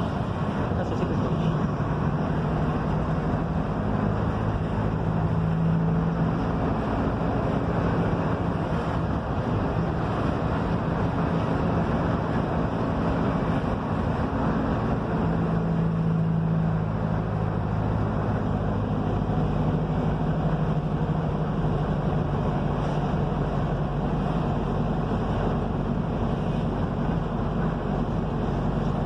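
Mercedes-Benz OF-1721 bus engine running steadily under way, with road noise; its pitch shifts up and down a few times as the engine speed changes.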